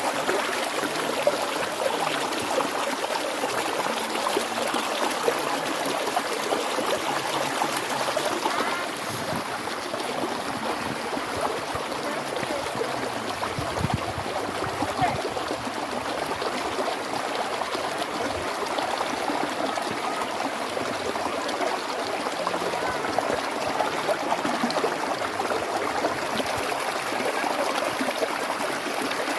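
A stream of running water flowing steadily, a continuous babble with no break.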